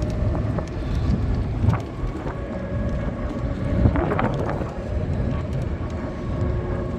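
Electric-converted 1958 Chevrolet Corvette driving at speed: a thin steady whine from its reVolt Systems EV crate motor and drivetrain over heavy wind and road rumble, with a brief swell about four seconds in.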